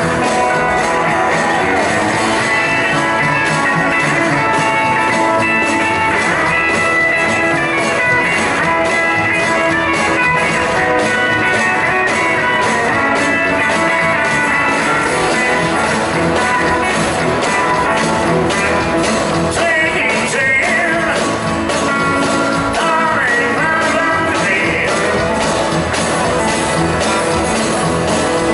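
Rock and roll band playing live: electric guitar over a steady drum beat, at times with singing.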